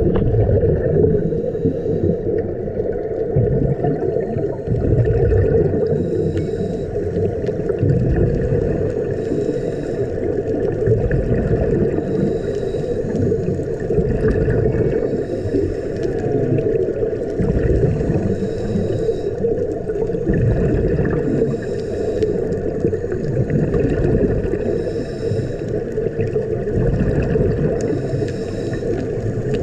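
Scuba diver breathing through a regulator underwater: a hiss of inhalation about every three seconds over a steady rumble and gurgle of exhaled bubbles and water.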